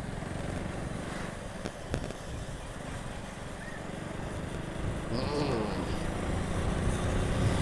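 Motorcycle on the move: a steady low engine and road rumble.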